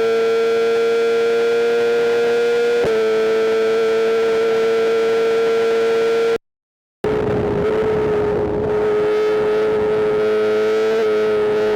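A sportbike's inline-four engine running at steady high revs, its note holding almost constant pitch. It cuts to silence for about half a second a little past the middle, then carries on with more rushing wind noise.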